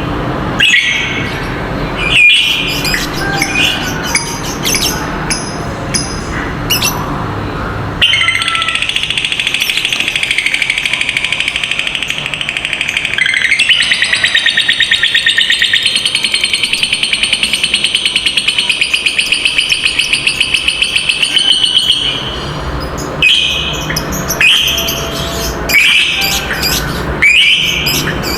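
Lovebird calling: short sharp squawks, then about eight seconds in a long unbroken rapid chattering trill, the 'ngekek panjang' prized in lovebirds, which runs for some fourteen seconds before the short squawks resume.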